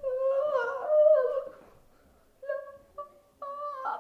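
A high voice humming a drawn-out, wavering note for about a second and a half, then three short sung notes, the last one landing on the word 'lang'.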